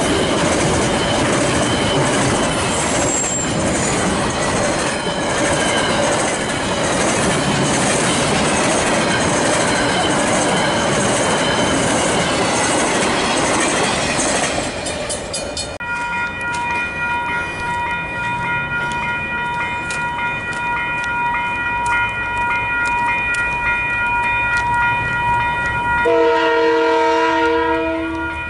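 A container freight train passing close by, its wagons clattering over the rails with a loud, steady rumble. About halfway through it gives way to level-crossing warning bells ringing steadily. Near the end a diesel locomotive's horn sounds a chord for about two seconds.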